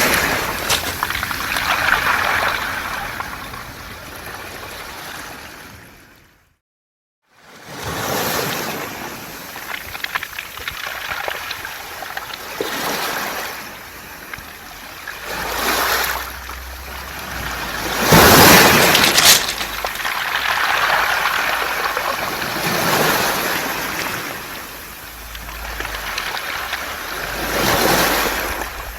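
Waves washing up and draining back over a beach of round pebbles, the stones rattling in the backwash; the surf swells and fades every few seconds. About six seconds in the sound cuts out completely for about a second.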